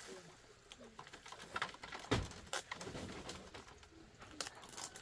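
Birds calling in short, low, arching calls, with a few sharp knocks in between, the loudest a thump about two seconds in.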